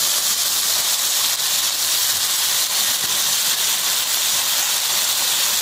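Tuna and tomato masala sizzling steadily in a frying pan, an even hiss.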